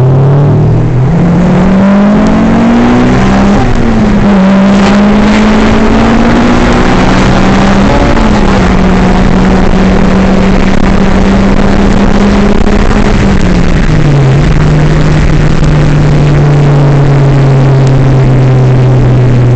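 Car engine under hard acceleration, heard loud inside the cabin: the pitch climbs, drops at an upshift about four seconds in and again about eight seconds in, then holds steady. About fourteen seconds in it falls to a lower steady pitch as the car settles to a cruise.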